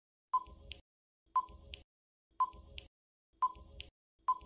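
Quiz countdown timer sound effect: a short electronic beep followed by a fainter tick, repeated about once a second, five times.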